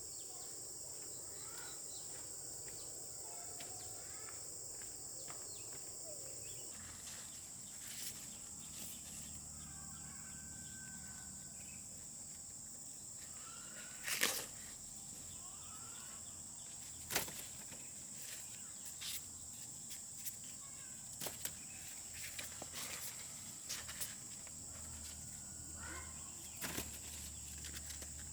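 Steady high-pitched chorus of crickets or similar insects in a rural field, with scattered sharp clicks and snaps, the loudest about 14 and 17 seconds in, and a few faint bird chirps.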